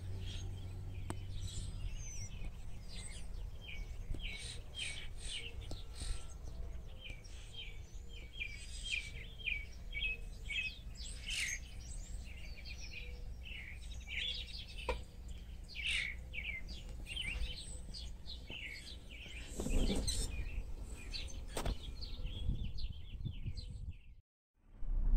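Small birds chirping and singing, many short repeated notes, over a low steady hum that fades out about three quarters of the way through. Two brief louder noises come near the end.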